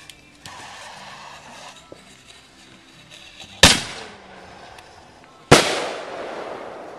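Two loud bangs of aerial fireworks bursting overhead, about two seconds apart. The second trails off in a long fading rumble.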